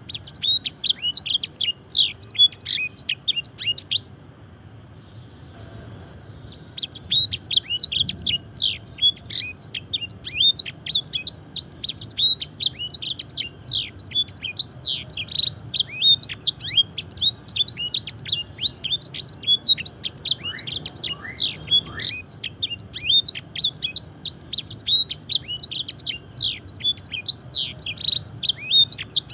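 Domestic canary singing a fast song of high chirps and trills, laced with phrases copied from the blackthroat and edelsänger. It stops for about two seconds a few seconds in, then sings on without a break.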